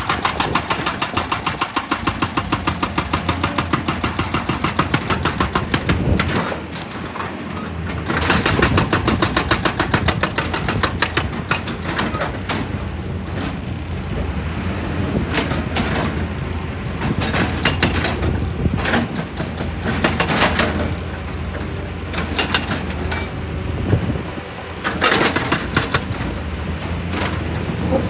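An excavator's diesel engine runs under load while a hydraulic rock breaker pounds stone in rapid, evenly spaced blows. The hammering comes in runs of a few seconds with pauses between them.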